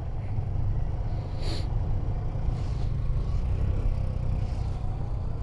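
Honda 125 cc learner motorcycle engine running as it is ridden at low speed, under a heavy, steady low rumble. A brief hiss comes about a second and a half in.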